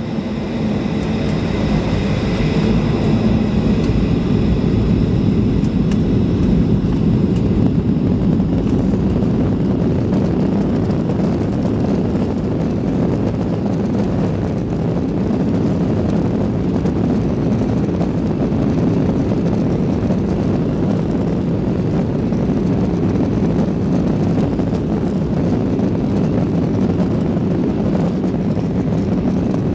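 Cabin noise of a Boeing 737 airliner at takeoff power: a high engine whine of several steady tones that fades over the first eight seconds or so, under a continuous low rumble of engines and airflow.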